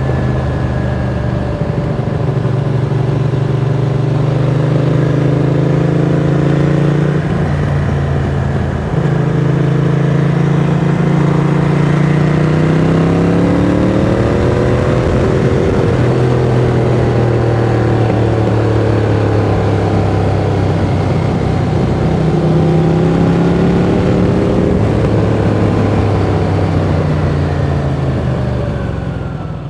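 Ducati Monster 695's air-cooled L-twin through a Mivv X-Cone aftermarket exhaust, running under way, its pitch rising and falling as the revs change, with a couple of brief breaks like gear changes. The sound fades out near the end.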